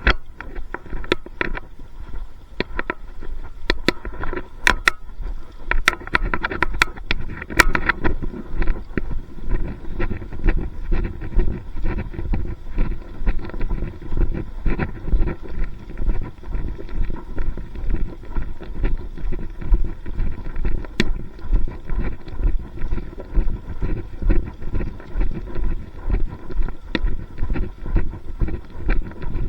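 Rhythmic low thumps and rumbling, about one and a half a second, with a run of sharp clicks a few seconds in: handling and wind noise on a recorder carried at a walking pace.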